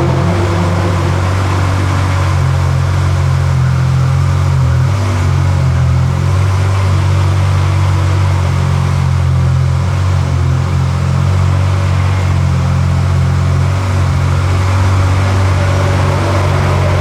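Pagani Zonda F's 7.3-litre Mercedes-AMG V12 idling steadily with a deep, even low note.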